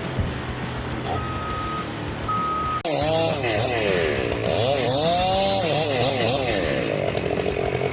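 A chainsaw engine running loud, its pitch repeatedly rising and dipping as it revs and bogs under load. Before it, a lower steady engine sound with two short high beeps, ending in an abrupt cut.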